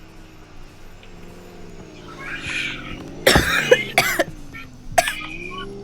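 A person coughing and laughing in a few loud, harsh fits, about halfway through and again near the end, over a steady low hum that drifts slightly in pitch.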